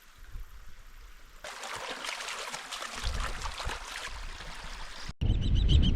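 A stream running over stones, the water growing louder about a second and a half in. Near the end it cuts off abruptly to loud birdsong.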